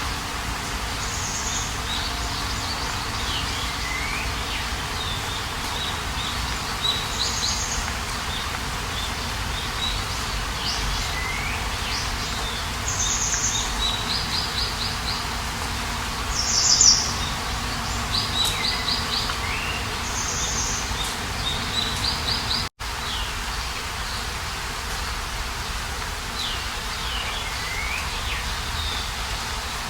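Wild birds singing outdoors: repeated short, high chirps and quick trills, some notes sliding down, over a steady background hiss of outdoor ambience. The sound cuts out for a split second about two-thirds of the way through.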